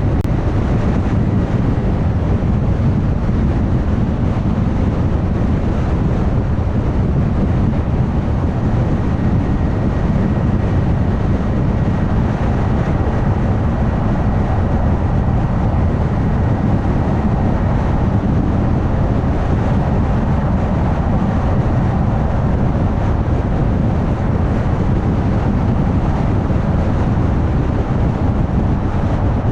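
Car cruising at highway speed: steady tyre and road noise with a low rumble, unbroken throughout, and a faint thin high whine in the first half.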